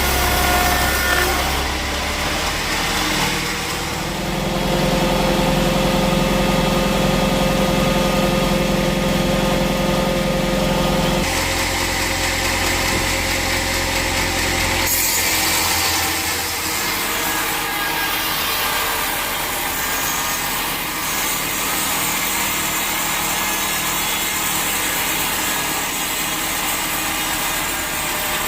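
Sawmill machinery running: a steady motor hum with a noisy wash over it, changing pitch and level abruptly a few times.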